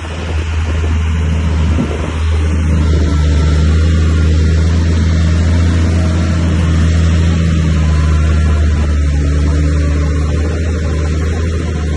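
Bulldozer's heavy diesel engine running steadily, a deep drone that builds a little over the first few seconds and then holds.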